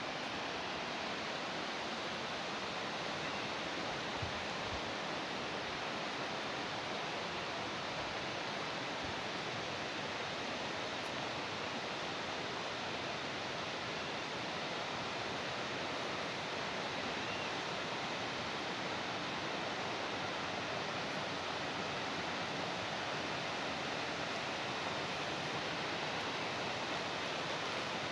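Steady rushing of water flowing along an old water channel, an even, unbroken hiss.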